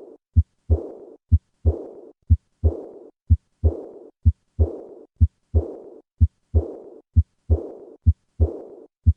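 Heart sounds at about one beat a second, each beat a short first and second heart sound, the second followed at once by a blowing diastolic murmur that fades away: the decrescendo murmur of aortic regurgitation.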